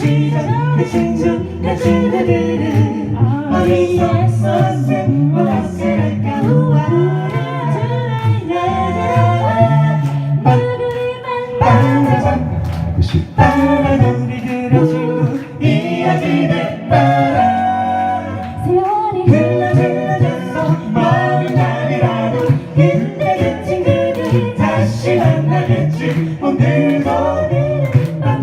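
A cappella vocal group singing in harmony without instruments, with a strong low bass part under the upper voices and frequent sharp percussive clicks.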